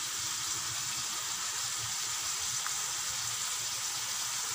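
Pumpkin cubes, shallots and tomato frying in oil in a wok, a steady sizzle.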